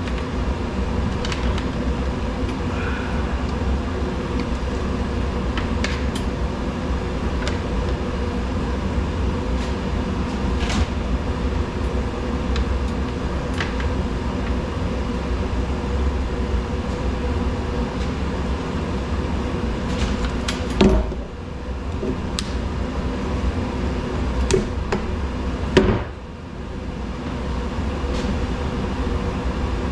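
A steady mechanical hum, with scattered sharp clicks and knocks. There is a louder knock and a brief drop in the hum about twenty-one seconds in, and again about twenty-six seconds in.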